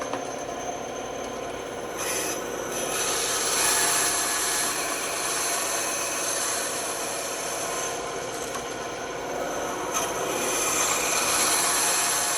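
Band saw running with a steady hum while it cuts wood, the blade cutting louder in two long stretches, about two seconds in and again about ten seconds in, as the piece is pushed into it and shaved down at angles.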